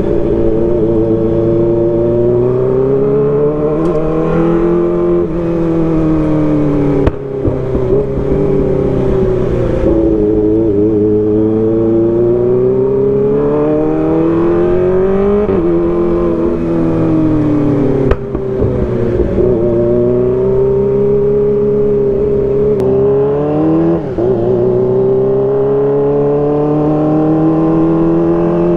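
Kawasaki ZX-25R's inline-four engine through an Arrow Pro Race exhaust, ridden hard. The exhaust note rises and falls with the throttle through the gears, with three brief dips at the shifts and a few sharp pops.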